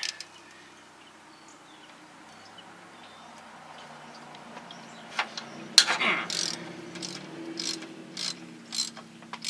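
Hand ratchet wrench clicking in short strokes, about two a second, working a tight bolt off the engine. The strokes begin a little past halfway, after a sharp metal clack.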